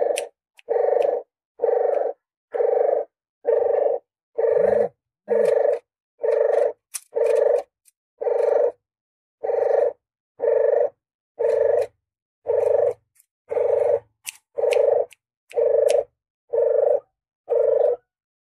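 Puter geni dove lure call: a low coo about half a second long, repeated steadily about once a second.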